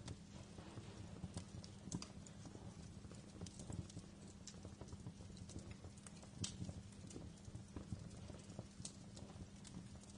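Wood fire crackling in a fireplace: irregular sharp pops and snaps, a few louder than the rest, over a low steady rumble of the flames.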